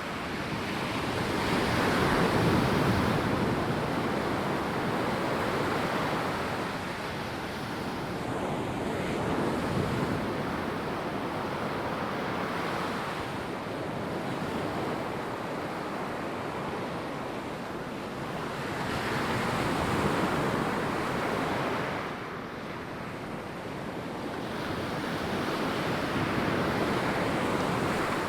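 Ocean surf breaking and washing up a sandy beach, swelling and easing in slow surges several seconds apart, with some wind noise.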